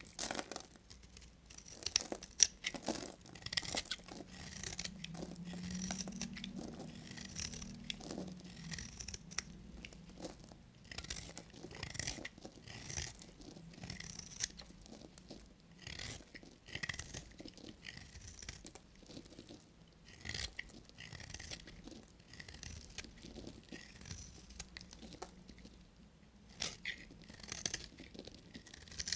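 A knife cutting dry bar soap in repeated crisp, crunchy scraping strokes, about one a second.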